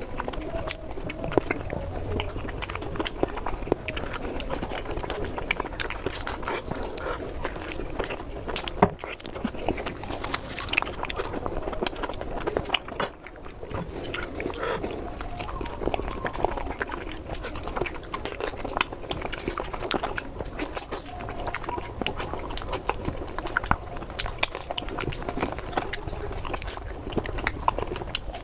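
Close-up chewing and eating, a dense run of small wet clicks and smacks.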